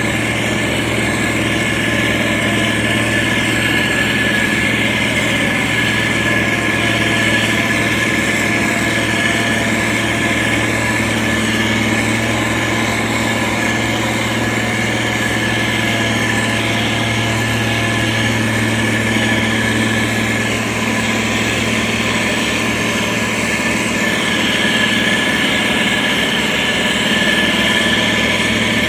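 Diesel engine of a SANY STG190C-8S motor grader running steadily, its pitch and level holding even throughout.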